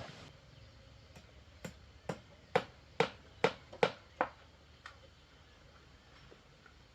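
Hammer blows, about nine sharp knocks at roughly two a second, loudest in the middle of the run and then fading out, as in nailing boards or sheets on the coop.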